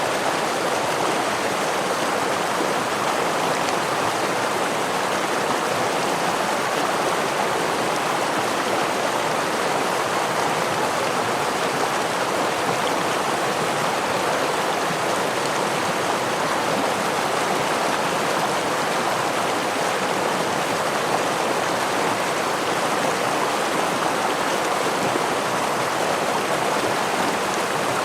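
Stream and small waterfall running steadily, an even rushing of water with no change.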